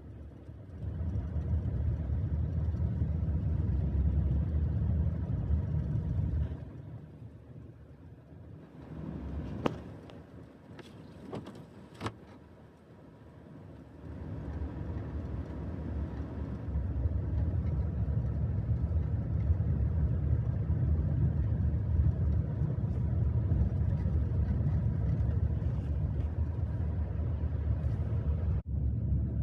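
Car on the road: a low rumble of engine and road noise that fades out for several seconds in the middle, broken by a few sharp clicks, then builds back up and stays loud.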